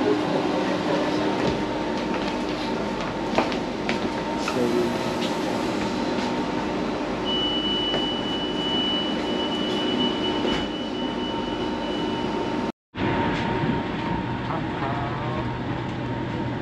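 Steady rumble and hum inside a passenger train carriage as the train pulls slowly out along the station platform, with a thin high steady tone for several seconds near the middle. The sound drops out for a split second about three quarters of the way in.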